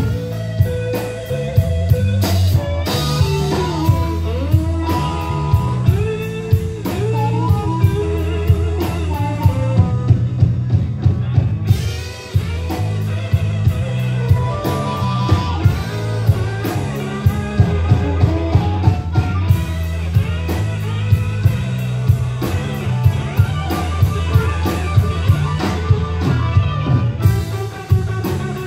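Live blues-rock band playing an instrumental passage: a lead electric guitar line with bending notes over bass and a steady drum-kit beat.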